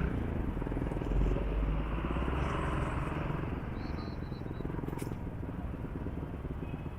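Motorcycle engine running while riding, a steady low drone with a fast, even pulse, slightly louder in the first couple of seconds.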